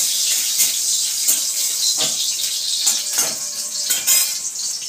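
Cashew nuts sizzling in hot oil in a metal wok, a steady hiss, with a few short scrapes and taps of a flat metal spatula against the pan.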